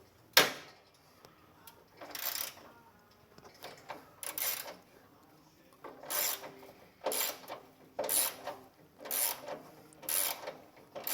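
Ratchet wrench being worked on a bolt of a riding mower's engine, giving short clicking strokes about once a second. There is a sharp knock about half a second in.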